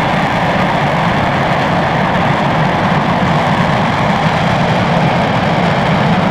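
RS-25 liquid-hydrogen/liquid-oxygen rocket engine firing steadily in a ground hot-fire test, a loud, even noise with no change in level.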